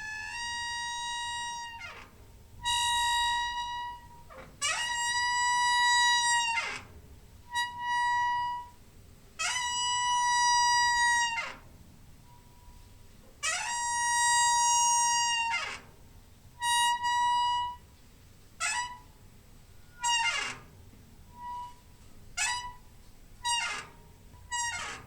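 Door hinge squeaking over and over as the door is swung: a dozen or so high, whining creaks that slide into and out of one steady pitch. The first creaks are long, each lasting a second or two; toward the end they come shorter and quicker.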